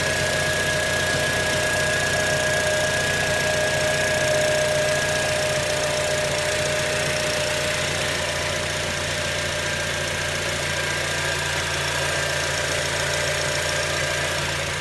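2006 Acura TSX's 2.4-litre four-cylinder engine idling steadily, with its faulty ignition coil just replaced, and a thin steady whine over the engine hum.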